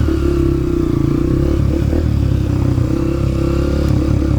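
Dirt bike engine running at a fairly steady speed while being ridden.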